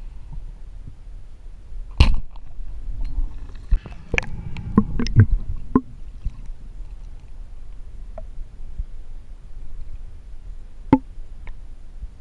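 Spearfishing gear knocking and clicking underwater over a steady low rumble: one sharp crack about two seconds in, then a quick cluster of knocks and clicks for a couple of seconds, and one more sharp knock near the end.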